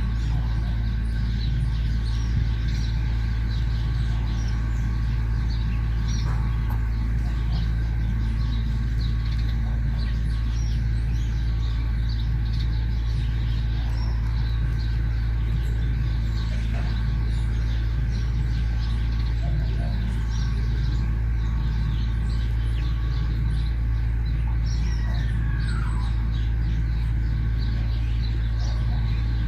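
Many small birds chirping in short scattered notes over a steady low rumble, with one call sliding down in pitch late on.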